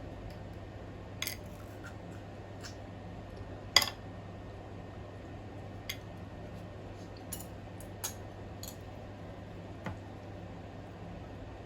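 Scattered sharp clicks and clinks of a spoon working on crab shell while eating, the loudest about four seconds in, over a low steady hum.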